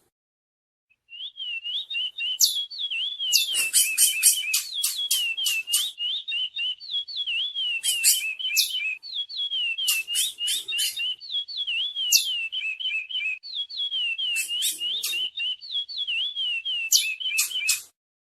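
Chestnut-bellied seed finch (curió) singing a long, rapid run of whistled warbling notes mixed with sharp high chips. It starts about a second in and stops shortly before the end.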